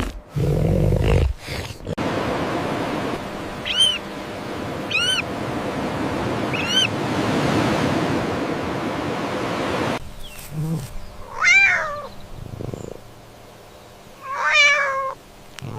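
Several seconds of hissing noise with three short high chirps, then two meow-like animal calls, each about a second long and falling in pitch.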